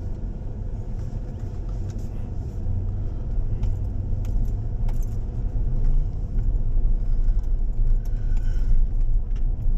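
A truck driving in traffic: a steady low rumble of engine and road that grows louder about six seconds in, with scattered light clicks and rattles.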